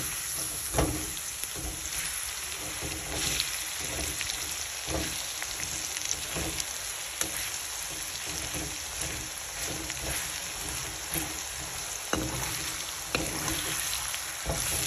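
Cubes of meat and garlic paste sizzling in hot oil in a metal wok, their water almost cooked off. A slotted metal spatula scrapes and knocks against the pan every second or so as it stirs.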